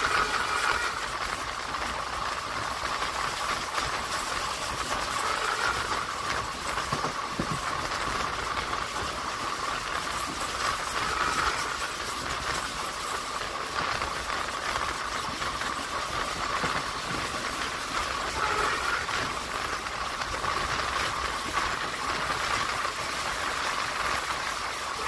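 Steady running noise of a passenger train heard from on board a coach: wheels on the rails under an even hiss, with a faint steady whine.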